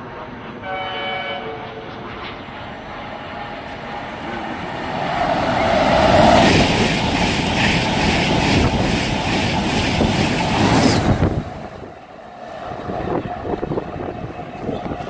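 A Virgin Trains East Coast express passing non-stop through a station at speed. A short horn blast sounds about a second in. Then a rising rush of wheels and air builds into a loud passing roar with wheels clattering over the rails, and it cuts off suddenly about three-quarters of the way through as the last coach clears.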